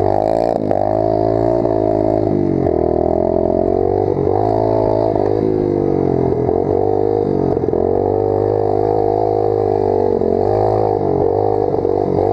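Pit bike's small single-cylinder engine revving up and down repeatedly while riding, the pitch rising and falling every second or two.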